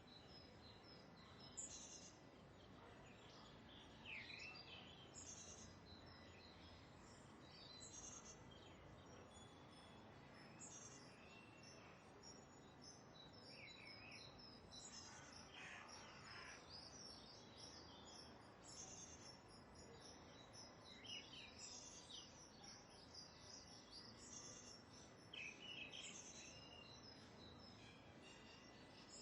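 Faint birds calling: short high chirps every couple of seconds, with a few downward-sweeping calls, over a low steady hiss and a faint high pulsing trill.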